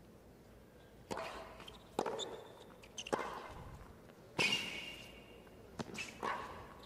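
Tennis rally: racket strikes on the ball about once a second, with short high shoe squeaks between shots.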